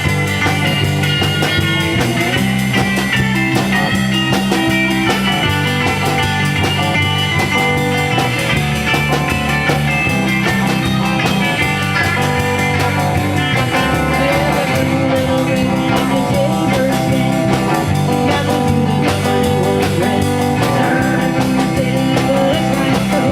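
Rock band playing an instrumental passage: electric guitar over bass and a drum kit, with no singing.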